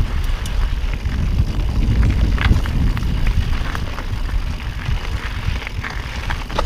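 Mountain bike rolling along rocky dirt singletrack: tyres crunching on gravel and the bike clattering over stones in scattered sharp clicks, over a heavy low wind rumble on the camera microphone.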